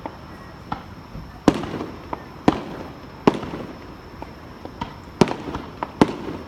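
Aerial firework shells bursting in a display: five loud, sharp bangs spaced about a second apart, each with a short rumbling echo, and smaller pops between them.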